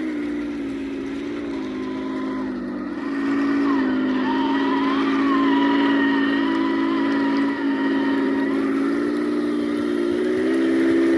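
Heng Long Leopard 2A6 1/16-scale RC tank running with a steady mechanical whine whose pitch shifts up and down as it changes speed.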